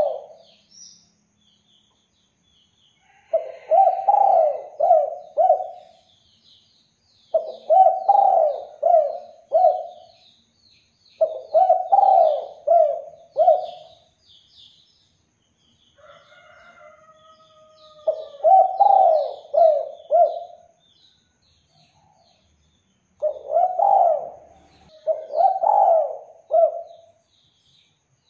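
Spotted dove (derkuku/tekukur) cooing in repeated phrases of about four notes, one every few seconds, with a short pause about two thirds of the way through. Small birds chirp faintly in the background.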